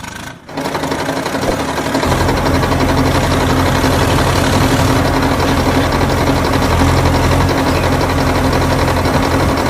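A small motor running steadily with a constant hum, its low end filling out about two seconds in.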